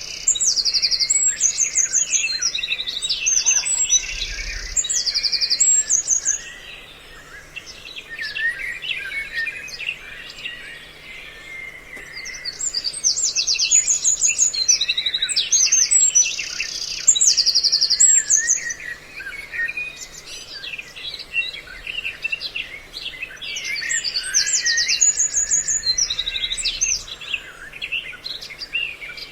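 A looped bird-call lure recording mixing several small songbirds' calls. Rapid high trills and busy chattering come in matching bursts that repeat about every twelve seconds, with quieter chatter between them.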